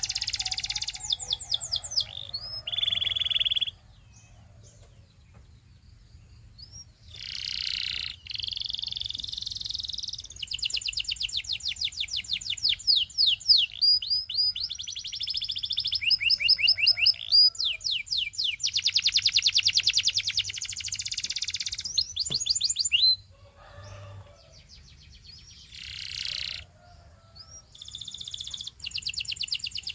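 Canary singing long phrases of fast trills and rolls of rapidly repeated notes, with a couple of short pauses between phrases.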